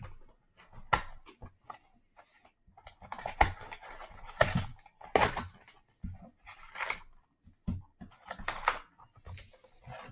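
A sealed trading card box being opened by hand: its wrapping torn and crinkled and the cardboard and card packs handled, in irregular bursts with a few sharp clicks.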